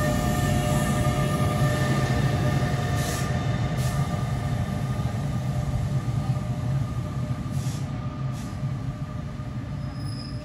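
NJ Transit double-deck Multilevel commuter train running past and pulling away. It makes a steady low rumble with a few steady higher tones over it, broken by a handful of sharp clicks, and the whole sound slowly fades toward the end.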